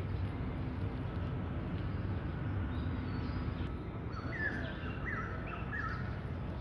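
A bird chirping a quick series of short calls starting about three seconds in, over a steady low background rumble.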